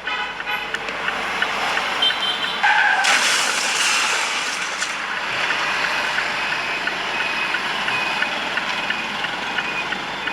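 Road and vehicle noise from traffic footage, with a brief squeal about two and a half seconds in, then a sudden louder rush of noise that carries on.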